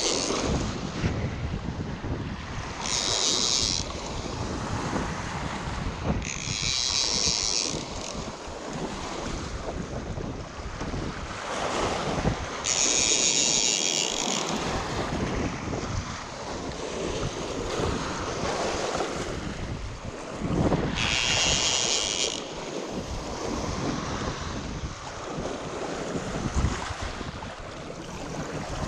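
Wind buffeting the microphone, with a high buzzing call of about a second repeating every few seconds, five times.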